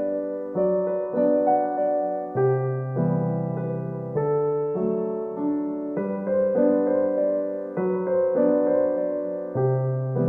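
Background music: gentle electric piano playing a slow melody over held bass notes.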